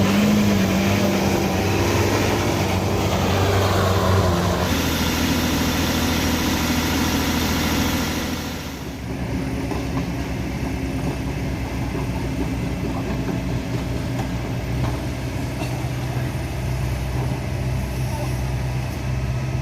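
Heavy vehicle engines running at a steady pitch, the note changing to a different, lower engine about eight seconds in.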